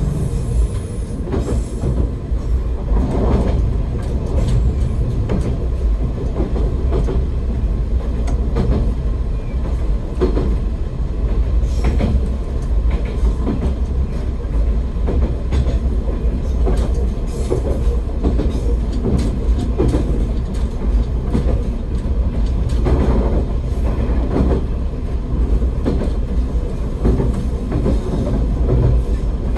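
Akita Nairiku Line AN-8800 diesel railcar running along the line, heard from inside the car: a steady low rumble of engine and wheels on rail, with occasional short knocks from the wheels at irregular intervals.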